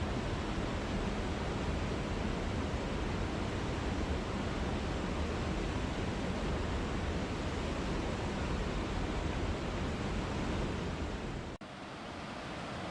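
Steady rush of falling water from a waterfall, an even noise heavy in the lows. Near the end it cuts out for an instant and comes back a little quieter and thinner.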